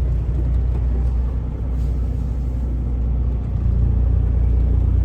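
A semi truck's diesel engine running at low speed as the truck rolls into a parking spot, a steady low rumble.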